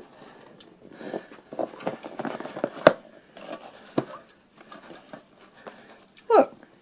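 Close handling noises: rustling with several sharp clicks and taps, and a brief voice sound near the end.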